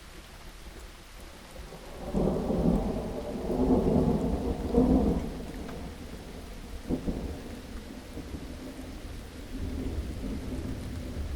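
Steady rain with thunder rolling in about two seconds in, loudest for a few seconds, then fading to weaker rumbles near the end.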